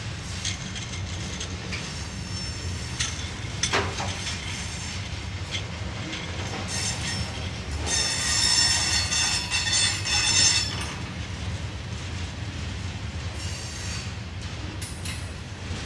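Freight train's covered hopper cars rolling past with a steady low rumble. A sharp knock comes about four seconds in, and a high-pitched wheel squeal rises and is loudest for a couple of seconds from about eight seconds in, then fades.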